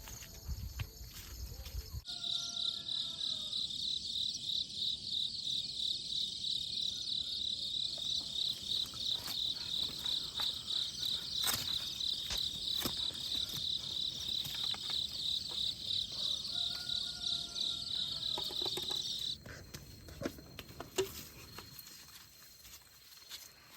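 An insect chirring, a steady high-pitched call with a fast even pulse, starting abruptly about two seconds in and cutting off suddenly a few seconds before the end.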